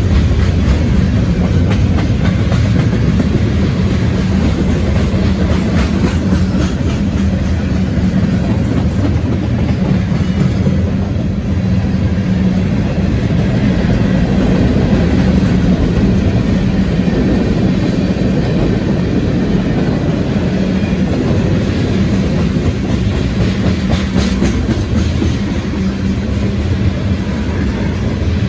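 Freight cars of a passing CSX freight train rolling by close at speed: a steady, loud rumble of steel wheels on rail, with scattered clicks from the wheels.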